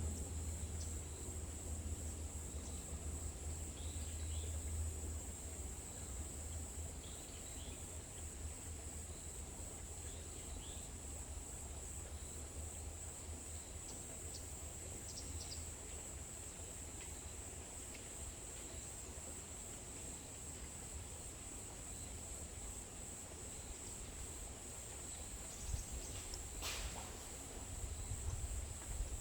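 Forest ambience: a steady, high-pitched insect drone, with a few short, faint bird chirps in the first third and a low rumble underneath. A single sharp click comes near the end.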